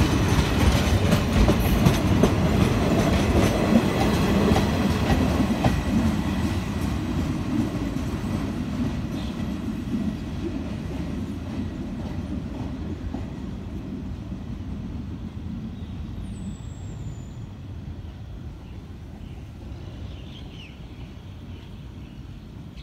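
The rear passenger coaches of a passing train rolling over the rails, wheels clacking on the track joints, the sound fading steadily as the train moves away.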